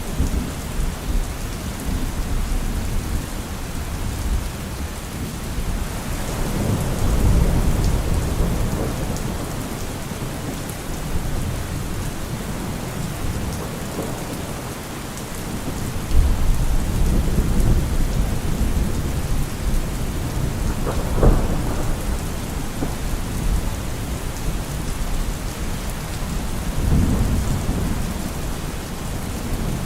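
Steady rain falling, with thunder rumbling several times, and a sharper thunder clap about two-thirds of the way in.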